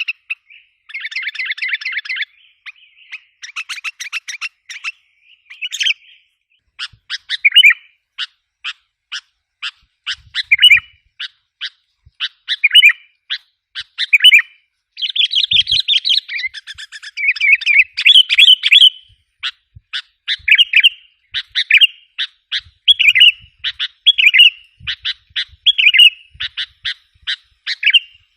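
Sooty-headed bulbul lure call: fast chattering runs, and series of short sharp notes each ending in a burry phrase, repeating about once a second, with a denser burst of chatter in the middle. This is an agitated call played to draw wild bulbuls in.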